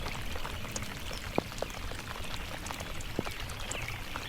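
Water splashing and dripping close to the kayak: a steady watery wash with scattered small ticks of drips.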